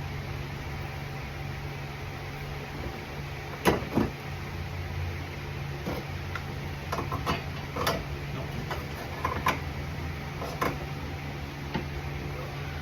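Irregular metal clicks and knocks from a socket and extension working a 10 mm nut inside a car door, the two loudest close together about four seconds in, over a steady low hum.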